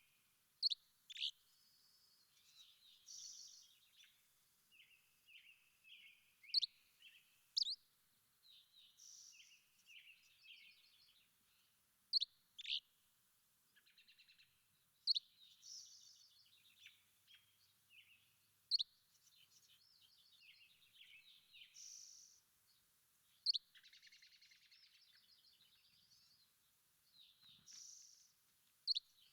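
Songbirds calling and singing: sharp, high down-slurred whistled notes every few seconds, often in pairs, among softer warbling and twittering.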